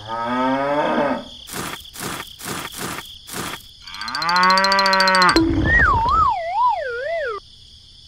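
A cow mooing twice as a sound effect, with a run of about five sharp knocks between the two moos. After the second moo comes a low thud, then a wavering cartoon tone that wobbles downward in pitch.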